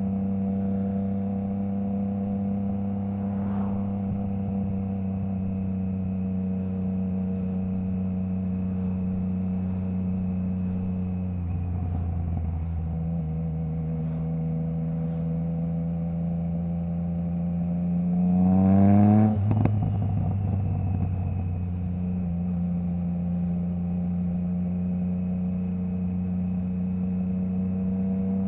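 Triumph Trident 660's inline three-cylinder engine through a baffle-less Zard stainless full exhaust, running at a steady cruising note. Partway through the revs dip briefly, then climb in a rising note to the loudest point, drop abruptly as the bike shifts, and settle back to a steady note.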